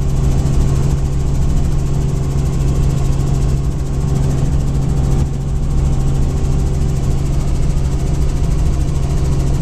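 Helicopter in flight: the engine and rotor make a loud, steady drone with a strong low hum, heard from inside the cabin.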